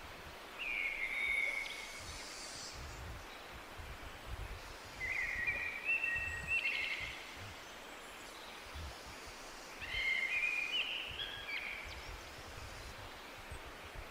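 A songbird sings three short warbling phrases a few seconds apart over a steady hiss of forest ambience.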